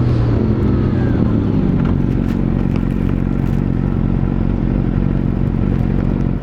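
Yamaha R6 (RJ27) inline-four engine dropping in pitch as the bike slows, then settling into a steady low run after about a second and a half, with a few light clicks.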